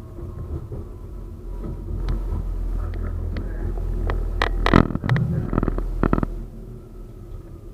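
A 71-931M Vityaz-M tram running on its rails: a low rumble that swells and then eases off, with a quick series of sharp metallic knocks in the middle, the loudest about five seconds in.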